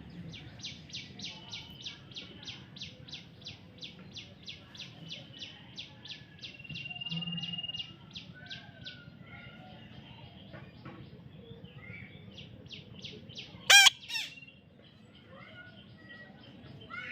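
Baby parrot calling: a fast run of short, repeated chirps, about four a second, with one held whistled note partway through. Later comes one short, loud squawk.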